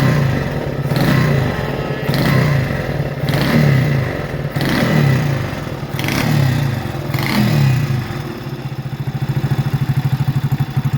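Vintage motorcycle engine revved in about six short throttle blips, each rising and falling back, then settling to a steady idle for the last few seconds.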